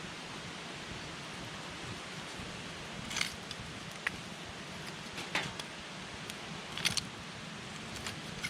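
Wood campfire burning with a steady hiss, and sharp crackles and pops from the burning wood four times, about three, five and a half, seven and eight seconds in.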